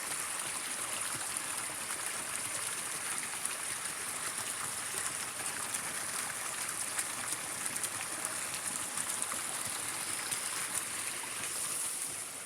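Water running steadily through and out of a cleared drainage pipe, with an even rushing and trickling.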